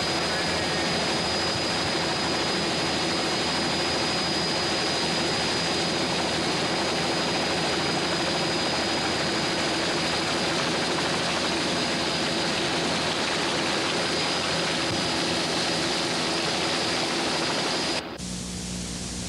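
Steady rushing vehicle noise, engine and wind heard from inside a moving vehicle, with a thin high steady tone over it. About eighteen seconds in it cuts off abruptly and a quieter, lower steady hum takes over.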